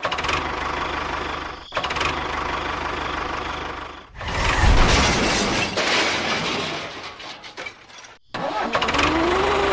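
A small engine running, heard in several short stretches that change abruptly, as if spliced together; the loudest stretch is in the middle, and near the end a rising whine appears.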